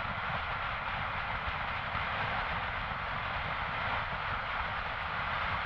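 Motorcycle running at steady road speed, heard as a constant rush of wind and engine noise with no change in pace.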